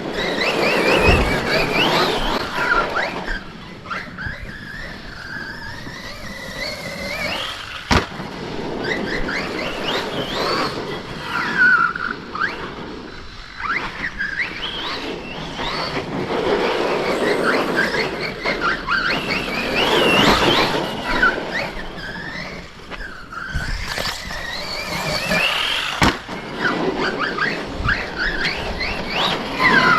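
Brushless electric RC monster trucks being driven hard on dirt: the motors whine up and down in pitch as they accelerate and let off, over the scrabble of tyres. There are a couple of sharp knocks, about eight seconds in and near the end.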